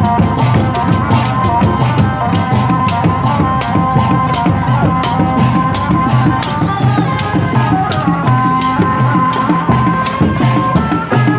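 Live Sundanese kuda renggong procession music: a steady beat of drums with sharp rattling percussion strokes under a held, wavering melody line.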